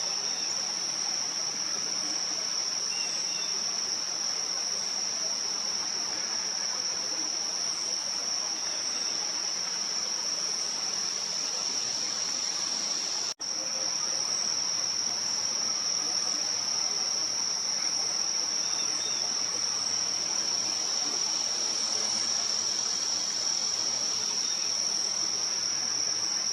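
Insect chorus: a steady, unbroken high-pitched trill, with faint short high chirps recurring over it. The sound cuts out for an instant about halfway through.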